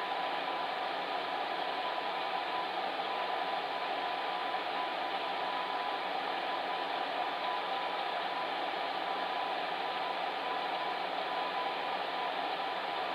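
Electric fan heater running, a steady whooshing rush of air with a faint constant hum in it.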